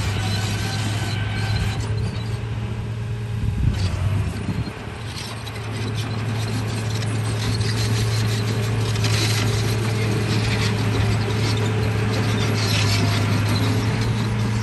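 Radio-controlled bulldozer's drive motors and gearboxes running with a steady hum and rapid clicking from the running gear. The sound dips briefly about four and a half seconds in, then picks up again.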